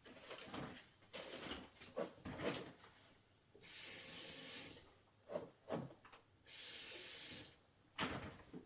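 Water running from a tap in two short bursts of about a second each, with rustling and handling sounds in between, as a paper towel is wetted.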